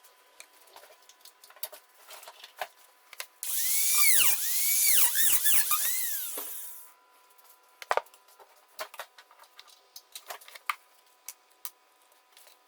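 A small power tool runs for about three and a half seconds in the middle, set among light clicks and knocks from handling small hard parts.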